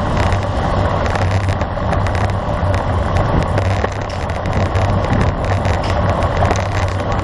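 Steady wind and road noise from a bicycle ridden at speed, with a low, fluttering rumble of wind on the microphone.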